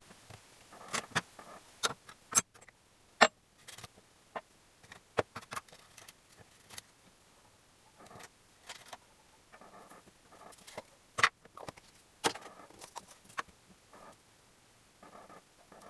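Irregular sharp metallic clicks and clinks of hand tools and small engine parts being handled during engine assembly, with soft rustling and handling sounds in between.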